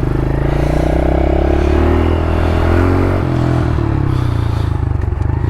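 Pit bike engines idling as they warm up, with the revs rising briefly and settling back about two seconds in.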